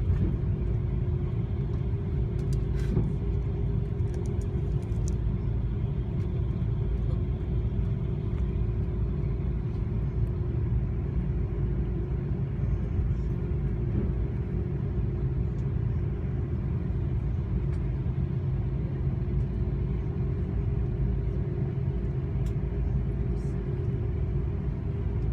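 Airbus A330-200 cabin noise with the aircraft on the ground after landing: a steady low rumble with a constant hum, unchanging throughout.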